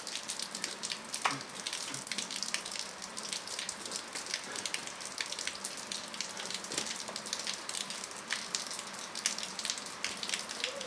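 Rain falling steadily: a continuous hiss with many small drop hits.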